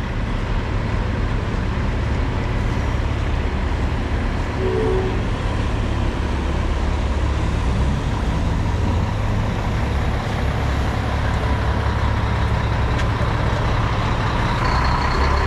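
Heavy diesel truck engine running with a steady low rumble.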